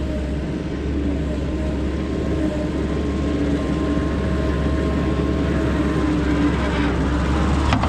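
Skid steer engine running steadily under load while spreading dirt.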